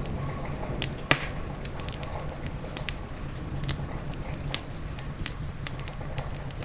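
Wood fire crackling in a fireplace: irregular sharp pops and snaps, one louder pop about a second in, over a steady low rumble.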